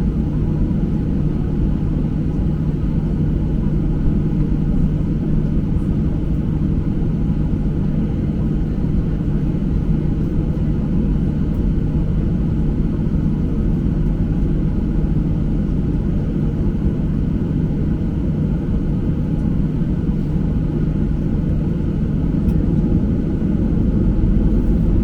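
Steady low rumble and hum inside the cabin of a Boeing 737-800 airliner, the noise of its engines and air systems, growing a little louder near the end.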